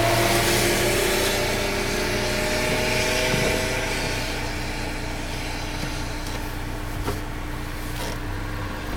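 Car engine running under throttle, its note sinking slightly and easing off, while the car is stuck in wet ground off the track and being driven to get free.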